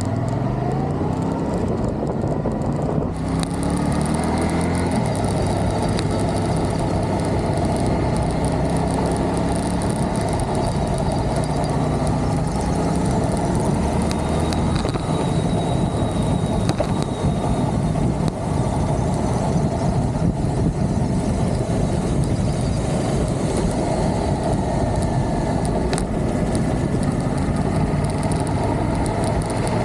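Motorcycle engine pulling hard and rising in pitch, with a gear change about three seconds in and a second pull after it. It then settles into steady riding, masked by heavy wind rush on the microphone.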